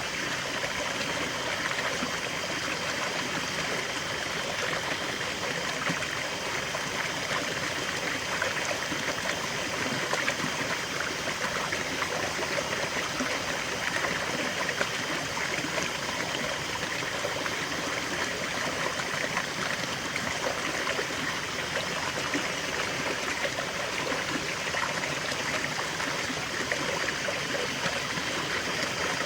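River water flowing steadily, a continuous rushing and burbling over stones with no pauses or single events.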